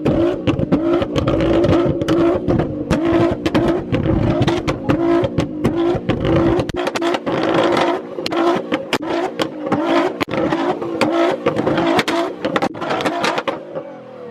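Car engine held at high, steady revs, with a rapid run of sharp cracks and pops over it; the engine sound fades away near the end.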